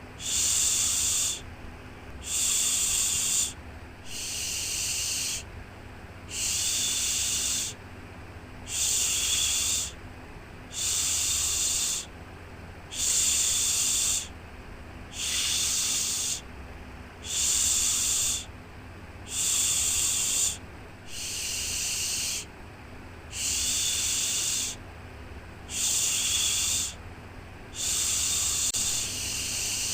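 A 'shhh' shushing sound for soothing a baby, repeated in even strokes about every two seconds, each about a second long. It plays over a low steady hum.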